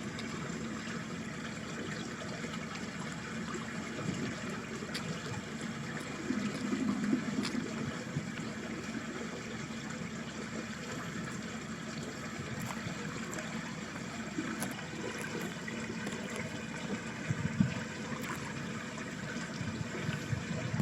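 Small stream of ditch water trickling and babbling steadily, with a louder low gurgle about six to eight seconds in.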